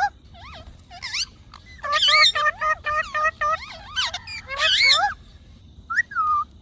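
Indian ringneck parrot chattering, a quick run of speech-like mimicked syllables mixed with sliding, whistled notes that rise and fall. It pauses about five seconds in, then starts another call near the end.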